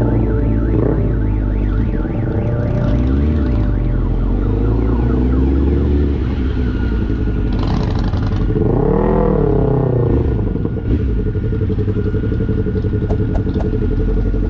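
Motorcycle engines running and revving, their pitch rising and falling several times, with the strongest rev swell about nine seconds in.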